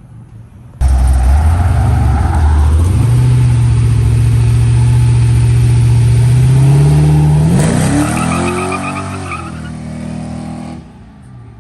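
Truck engine under hard acceleration, loud. Its note steps up over the first few seconds and holds steady, then climbs quickly about eight seconds in and fades as it pulls away. The sound starts and cuts off abruptly.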